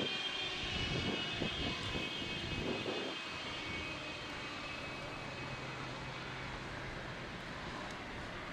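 Boeing 777-300ER's twin GE90-115B turbofan engines running, a broad rumble with a high whine over it; the whine fades out about three seconds in while the rumble carries on.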